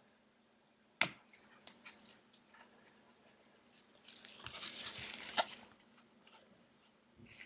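Trading cards and their plastic packaging being handled: a sharp click about a second in, scattered light ticks, then a rustling scrape a little after halfway that ends in another click.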